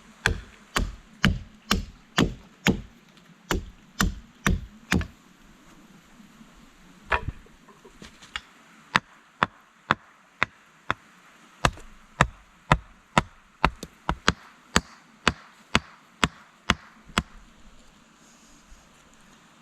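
Wood being chopped with a hand tool: sharp, regular blows about two a second in two runs with a short pause between, stopping a couple of seconds before the end.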